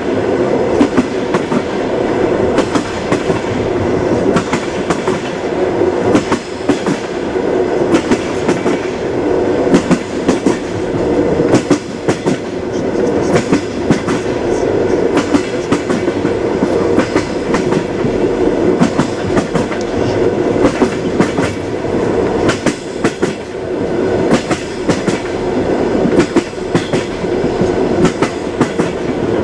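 Train wheels clacking over rail joints as the carriages roll along: a steady rumble with frequent sharp, irregular clicks.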